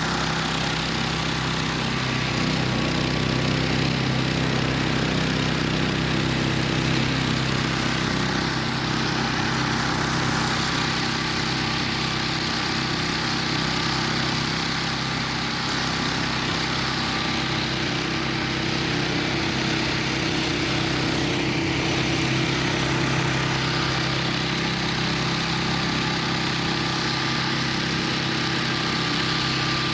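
Engine of a homemade karakat all-terrain vehicle running steadily, an even mechanical drone with no change in pitch.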